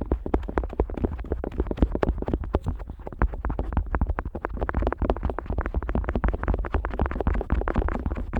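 An otoscope worked against the outer ear of a Neumann KU100 dummy-head microphone: dense, fast scratchy crackles and rubs, many strokes a second, over a low rumble.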